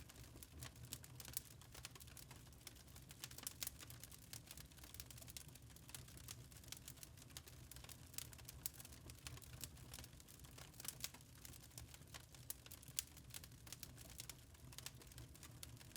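Fire crackling in a fireplace: faint, frequent, irregular pops and snaps over a low steady rumble.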